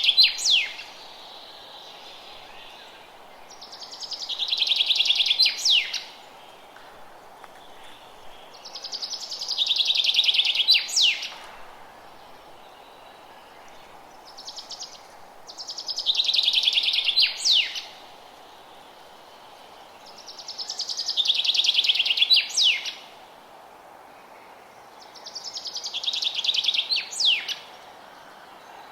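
A songbird repeating the same song about every five to six seconds: a fast, high trill of quickly repeated notes lasting about two seconds, growing louder and ending in a couple of sharp downward-sweeping notes. A steady low rush of forest ambience runs underneath.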